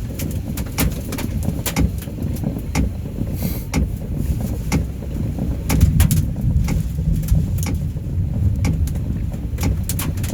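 Hail and heavy rain striking a car's roof and windshield in many irregular sharp knocks, heard from inside the car over a steady low rumble of wind and downpour.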